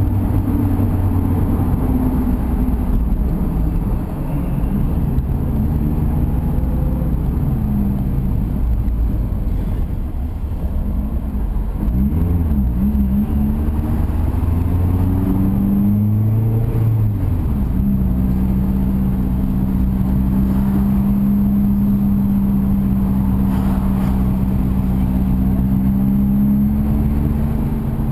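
Mazda MX-5's four-cylinder engine heard from inside the cabin, driving at moderate speed. Its pitch holds steady at first, climbs and drops a few times around the middle, then stays level for the last ten seconds.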